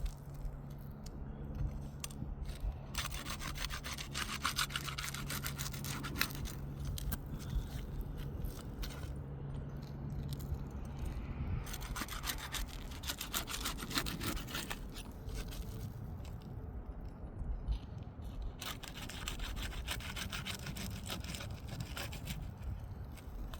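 Pry bar sliding under asphalt shingles and cutting through the tar sealant strip, breaking the seal: scraping, crackling passes a few seconds long, repeated several times.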